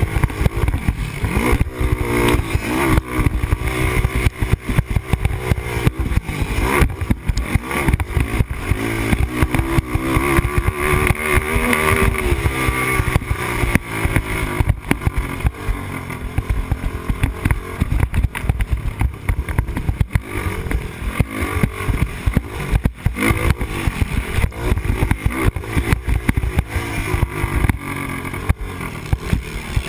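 Yamaha Raptor 250 quad's single-cylinder four-stroke engine under hard riding, its pitch rising and falling as the rider opens and shuts the throttle, with steady wind and bump noise on the helmet microphone.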